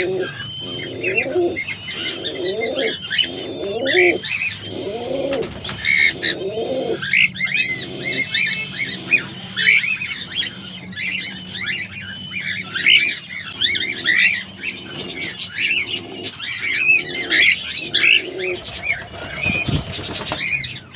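Cockatiels chirping constantly in many short, high calls, over a lower call that repeats about once a second and fades after the first third.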